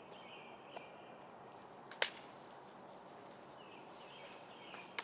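A single sharp crack about two seconds in, much louder than anything else, with a faint click just before it, over a faint high outdoor buzz.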